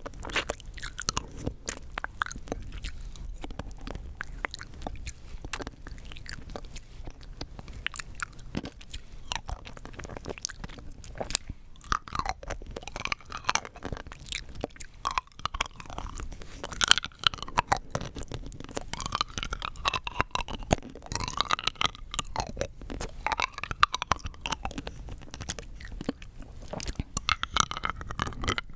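Rock candy being bitten and crunched between the teeth, close to the microphone, a steady run of sharp cracks and chewing. From about halfway through, wetter, squeakier mouth sounds join the crunching.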